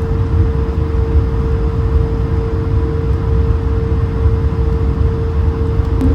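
Airbus A220 airliner cabin noise: a steady low rumble of engines and airflow with a steady hum held throughout.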